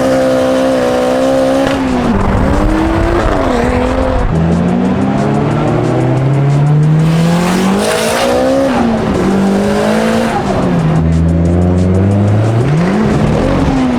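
Car engine revved hard, its pitch rising and falling again and again, with tyre squeal from a car skidding.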